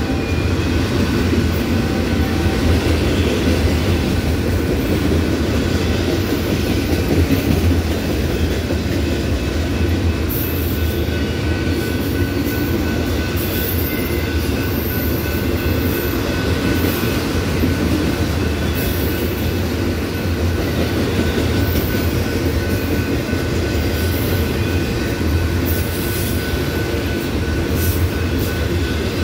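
Empty autorack freight cars rolling past at steady speed: a continuous rumble and clatter of steel wheels on rail, with brief high wheel squeals now and then.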